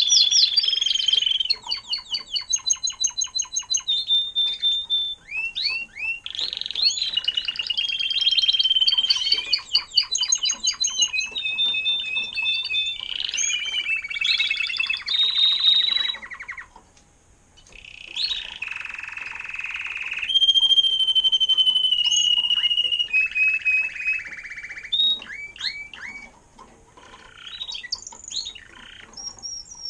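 A songbird singing close by: a long, varied song of high phrases, each a rapid run of repeated notes, trills or clear whistles, changing every second or two, with a brief pause about halfway through.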